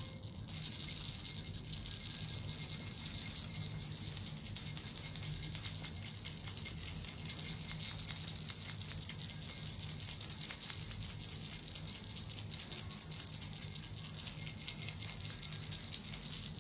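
Small Japanese suzu bells shaken continuously in a dense, steady jingling with a bright high ring.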